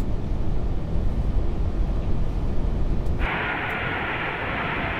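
Steady low rumble of Airbus A380 cockpit and airflow noise on short final just above the runway. About three seconds in, a steady hiss joins it and runs on for about two seconds.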